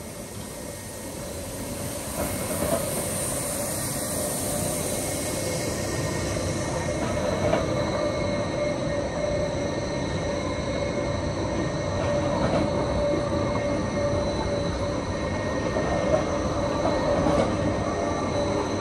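Jungfrau Railway electric train running slowly past on curved track, getting louder over the first few seconds as it draws near. A steady rumble runs under a thin, held whine and squeal from the wheels on the curve.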